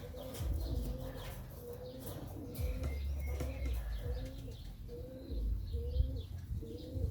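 Pigeons cooing: a steady run of short, slightly rising coos, about one or two a second.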